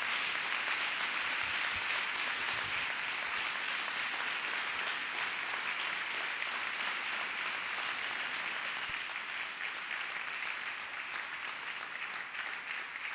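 Congregation applauding, a steady wash of many hands clapping that slowly fades toward the end.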